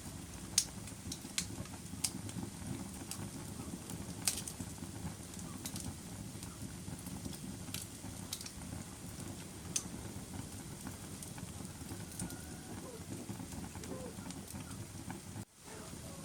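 Wood fire burning in a fireplace: a steady low rumble with sharp crackles and pops at irregular intervals, about a dozen of them. Near the end the sound cuts out for a moment and comes back.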